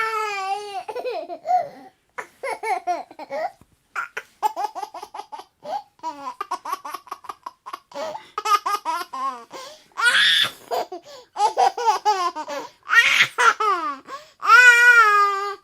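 A baby laughing and babbling in repeated high-pitched bursts, with quick runs of short laughs and a few longer squealing laughs near the start and near the end.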